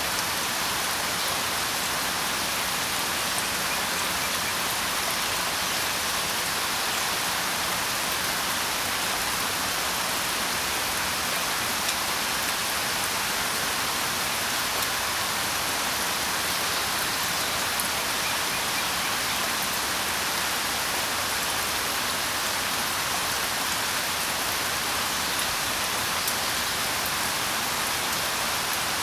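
Steady rain falling, an even hiss of drops with a few individual drop ticks standing out.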